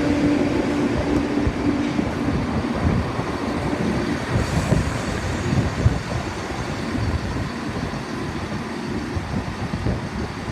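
A train running at the station platform, with a steady hum that fades out over the first few seconds, over continuous rail noise and low rumble.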